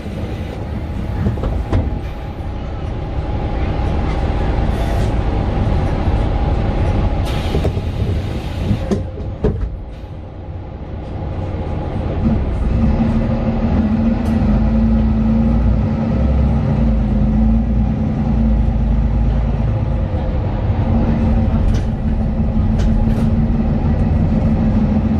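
Mercedes-Benz Citaro 2 city bus with its OM 936 inline-six diesel and ZF Ecolife automatic, heard from inside the cabin while driving. There is a brief hiss about seven to nine seconds in and the sound drops around ten seconds in; from about twelve seconds a steady drone sets in as the bus pulls and runs on.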